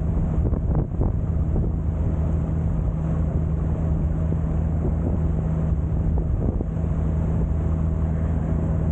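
Sightseeing boat's engine running steadily at a constant pitch, with wind buffeting the microphone.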